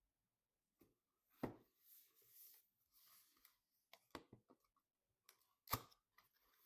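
Parts and packaging being handled at a workbench: three sharp clicks or knocks, about a second and a half in, near four seconds and near six seconds, with soft rustling between them.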